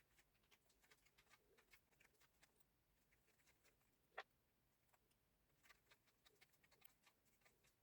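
Near silence with faint, scattered light clicks, and one sharper click about four seconds in.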